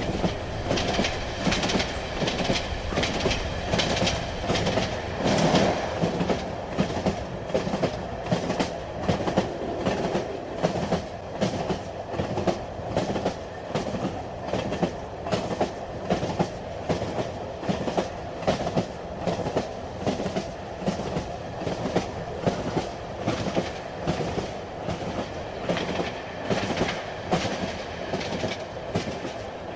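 Train running along the track, its wheels clicking over the rail joints in a steady, even rhythm above a continuous running noise.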